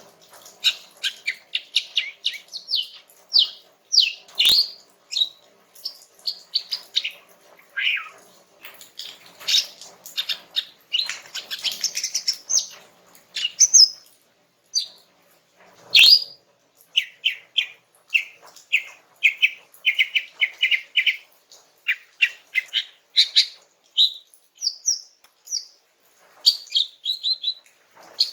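A female green leafbird (cucak ijo) singing a relaxed, rambling song of quick chirps, short trills and whistled phrases with brief pauses: a female calling to males. Two sharp clicks cut in, about four seconds in and about sixteen seconds in.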